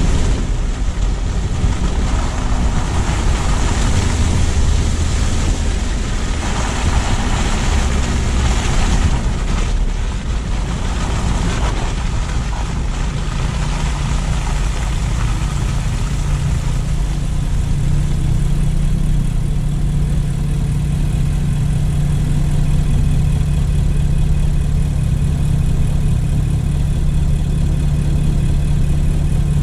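Car driving with steady tyre and road noise that fades after about twelve seconds as the car slows to a stop, leaving the engine idling with a steady low hum.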